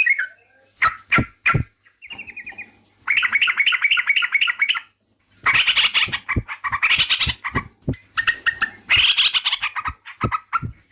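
Yellow-vented bulbul (trucukan) singing: loud phrases of rapid, bubbly chattering notes, broken by short pauses and growing denser after the first few seconds.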